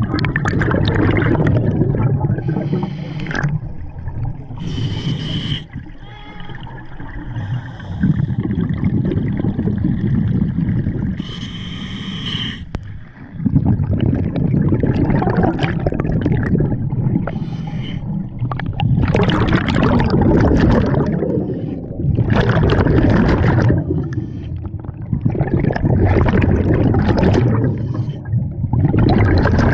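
Scuba diver breathing through a regulator underwater. Brief hissing inhalations with a thin whistle alternate with long, low bubbling exhalations every few seconds.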